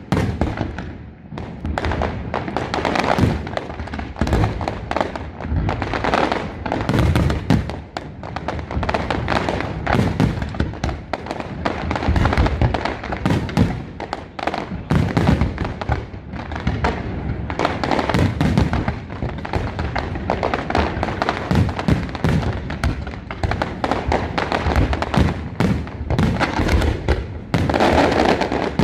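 Aerial fireworks shells bursting in rapid succession: a near-continuous barrage of booms and bangs, many each second, overlapping one another.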